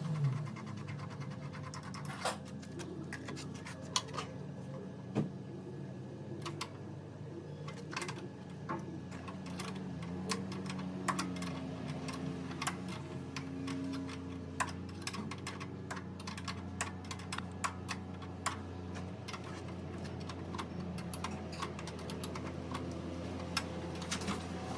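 Irregular light clicks and taps, as of hand work on small parts, over a steady low hum.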